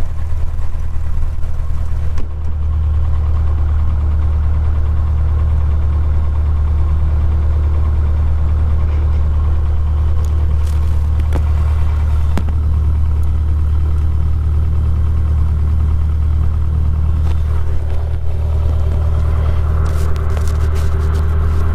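Cessna 150's four-cylinder Continental O-200 engine idling steadily just after a cold start, warming up. There is a small drop in level about two seconds in, and a few faint clicks near the middle.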